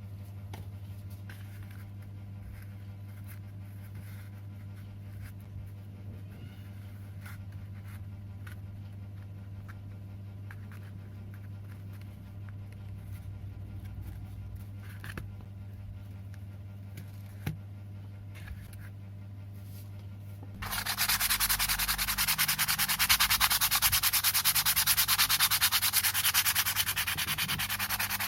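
A steady low hum, then about twenty seconds in, a loud, steady abrasive sanding noise starts as a powered sanding tool grinds down a sawdust-composite knife handle.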